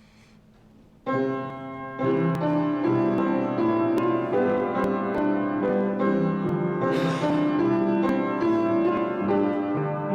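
Piano music begins about a second in: an offertory piece of sustained chords and melody, with the notes struck clearly.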